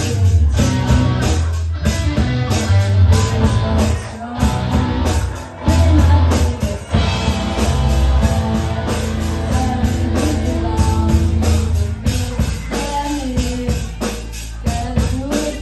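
Live rock band playing, with a steady drum-kit beat, electric guitar and a heavy bass line.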